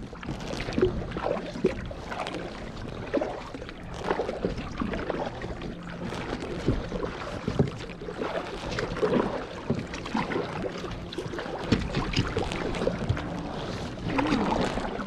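Kayak paddle strokes dipping and splashing in lake water, with water lapping along the hull in irregular splashes.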